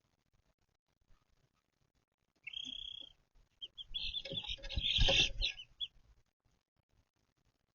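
Chicks peeping: one held high peep about two and a half seconds in, then a cluster of high chirps over a low rumble from about four to six seconds.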